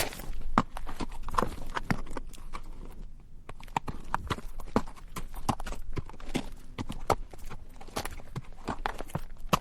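Horse's hooves walking on rocky dirt, a steady uneven clip-clop of several strikes a second.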